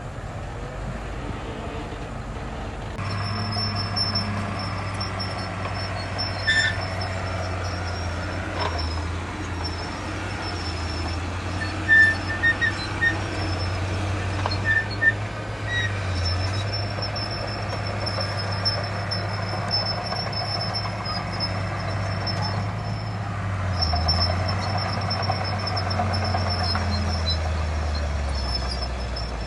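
Diesel engines of heavy earthmoving machinery, a bulldozer and dump trucks, running steadily with a low hum that grows louder about three seconds in. A few short sharp sounds come about halfway through.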